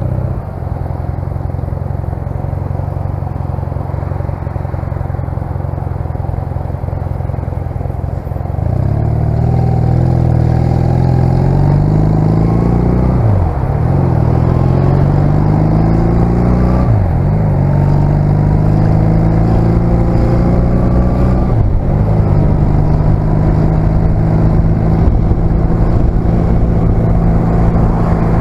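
1996 Honda CMX250C Rebel's 234 cc parallel-twin engine running steadily, then about eight seconds in it gets louder as the bike accelerates. The pitch climbs and drops back three times as the rider shifts up through the gears.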